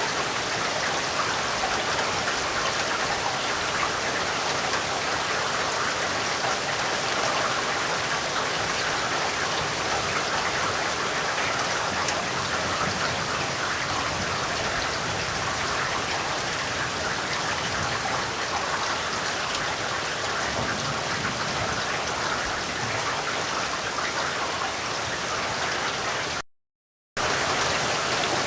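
Steady rain falling, an even hiss of many drops. Near the end the sound cuts out completely for under a second, then resumes.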